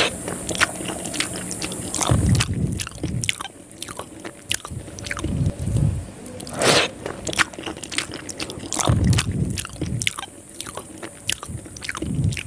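A person chewing mouthfuls of soft rice string noodles eaten by hand, with many small mouth clicks and a heavier chewing sound every few seconds.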